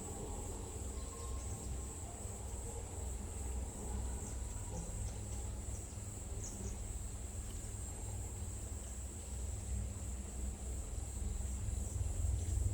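Insects trilling in a continuous high-pitched drone, with a steady low rumble underneath.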